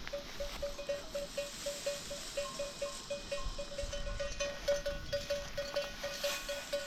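Small bells worn by a flock of livestock clinking over and over, several strikes a second, as the animals move.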